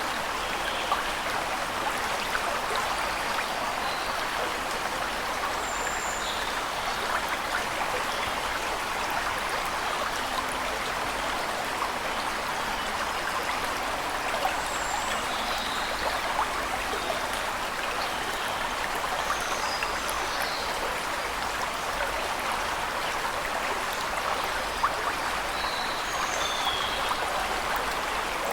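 Waterfall rushing steadily, with a few short, faint, high bird chirps scattered over it.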